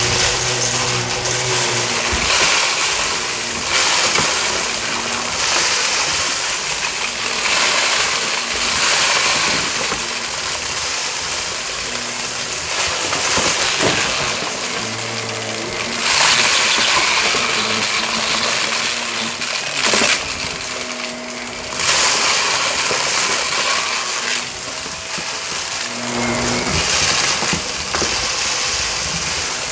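Shark vacuum cleaner running as it is pushed quickly back and forth over carpet, the suction noise swelling and easing with each stroke of about one to two seconds. Debris crunches and rattles as it is sucked up.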